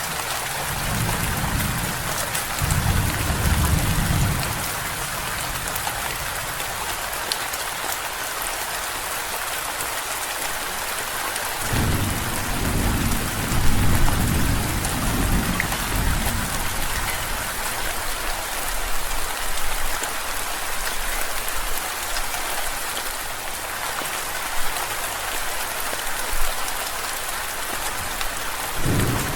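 Steady heavy rain with rolls of thunder: a low rumble swells about a second in and dies away after a few seconds, and another rolls through near the middle.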